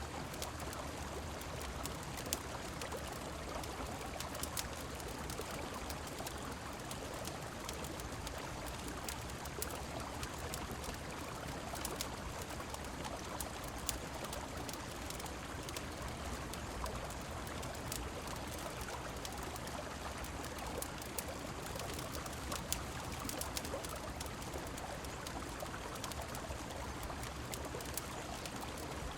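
Steady rush of flowing river water and falling rain, with many small, sharp crackles of a wood fire scattered throughout.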